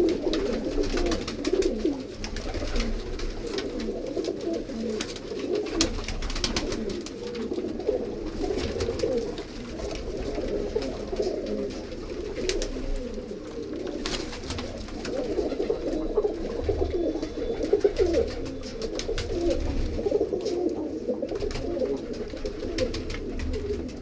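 Many domestic pigeons cooing at once, their low calls overlapping without a break, with scattered sharp clicks among them.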